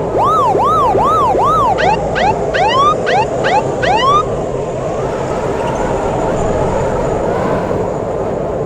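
Emergency vehicle's electronic siren sounding in quick rising-and-falling yelps, switching about two seconds in to faster short rising whoops, then stopping about four seconds in. A steady rush of street noise runs underneath.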